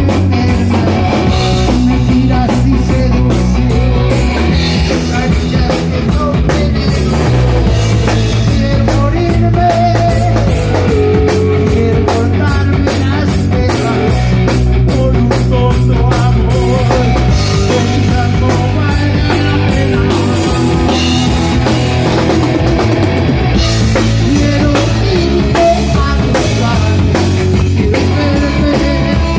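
Live rock band playing loud and steady, with drum kit, bass and electric guitar.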